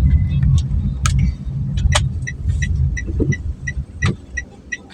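Motor vehicle engine rumbling low, with a few sharp clicks, then dying away near the end. An even, high-pitched ticking of about three ticks a second starts about halfway through and keeps going.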